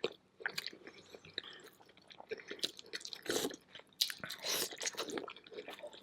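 Close-miked chewing of a seafood boil: irregular wet mouth clicks and smacks as food is bitten and chewed.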